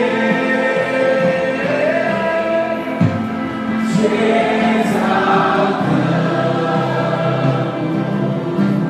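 Congregational worship music: a group of voices singing together with instrumental accompaniment, steady throughout.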